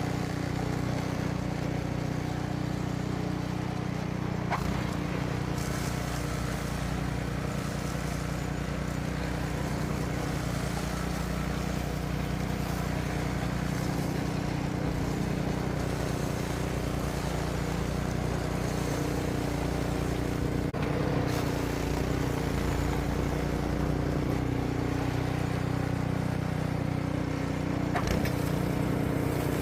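An engine running at a steady speed without change, with a few faint clicks.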